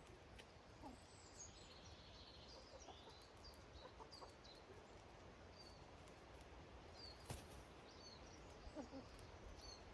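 Faint outdoor ambience of small songbirds giving short high chirps while hens cluck softly in the background, with one sharp click about seven seconds in.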